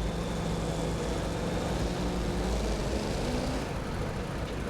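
Super modified two-wheel-drive pulling truck's engine running hard under load as it pulls the sled down the track: a steady dense engine noise with a faint pitch that rises a little about two to three seconds in.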